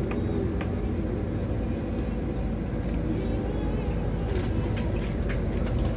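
Scania XT 540 truck's diesel engine running steadily under load while hauling five loaded trailers, with a few short clicks or rattles in the second half.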